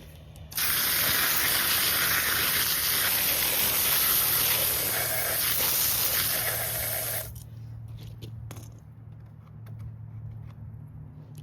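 A strong spray of water rinsing degreaser off an old chainsaw, a steady hiss that starts under a second in and cuts off suddenly after about six and a half seconds. Faint drips and small knocks follow.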